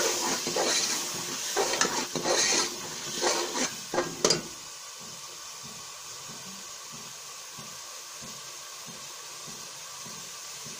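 A steel ladle scrapes and stirs an onion, tomato and spice masala in a steel pot while it sizzles, with a little water just added to keep it from burning. About four and a half seconds in the stirring stops, and the masala keeps up a steady, quieter sizzle and bubble.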